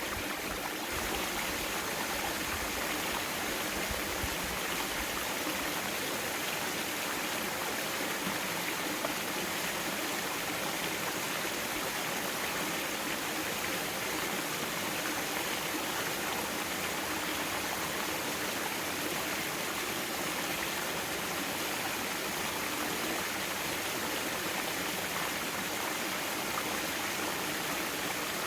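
Mountain valley stream flowing, a steady rushing and burbling of water over rocks.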